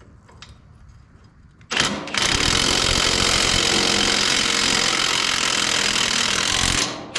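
Impact wrench running a bolt down: a loud rattling burst of about five seconds starting a little under two seconds in, a brief stop, then a second burst just at the end.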